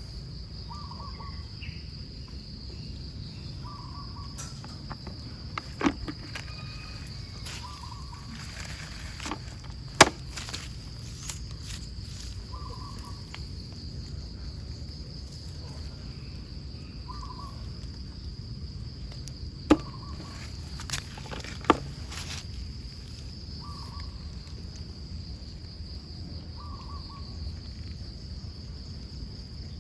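Crickets chirring in one steady high trill. Under it a short, lower call repeats about every two seconds, and a few sharp clicks and knocks sound, the loudest about ten seconds in and another just before twenty.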